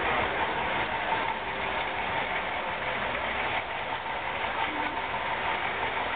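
KrAZ-255B heavy truck's V8 diesel engine running steadily.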